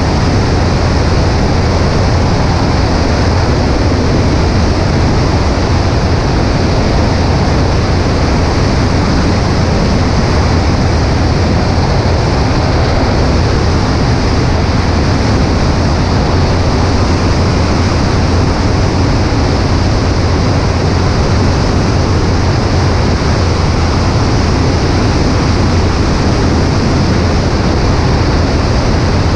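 Steady rush of wind over a camera mounted on a Cessna 140A's right wing, with the plane's engine droning underneath, unchanging throughout.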